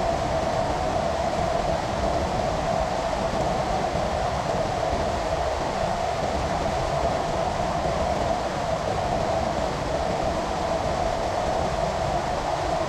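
Steady rain falling: a constant, even hiss that does not change.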